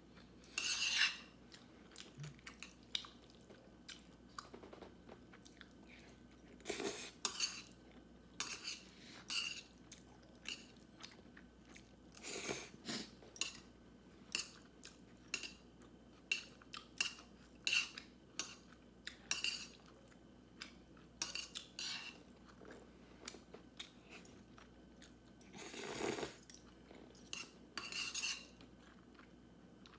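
Close-up eating sounds: crunching and chewing of battered fried food, with cutlery clicking and clinking against dishes in short, irregular bursts.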